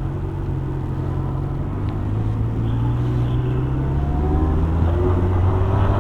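Motorcycle engine running under way, its pitch and loudness climbing slowly through the second half as the bike gathers speed.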